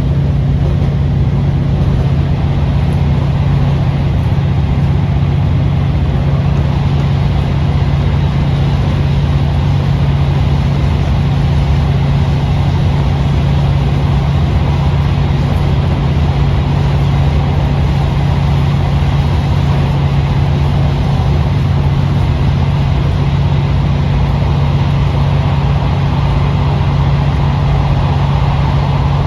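Diesel engine of a KiHa 40 series railcar heard from inside the car, a steady low drone that holds its pitch throughout.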